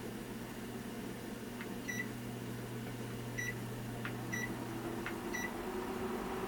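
Four short electronic beeps, about a second apart, from the buttons of a small appliance being set. A light click comes just before most of them, over a steady low hum.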